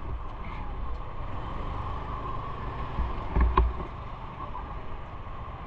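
Steady road and riding noise from a moving bike, a low rumble with wind on the microphone, and a louder thump about three and a half seconds in.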